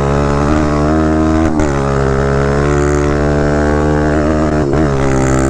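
190cc four-stroke pit bike engine at full throttle in a race start, pitch climbing through the gears with quick upshifts about a second and a half in and again near the end.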